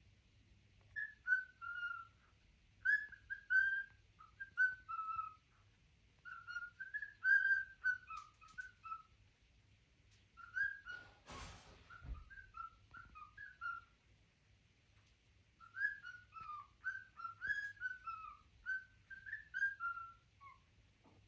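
A pet bird whistling phrases of short, clear, warbling notes, with pauses between the phrases. A brief rustling noise comes about eleven seconds in.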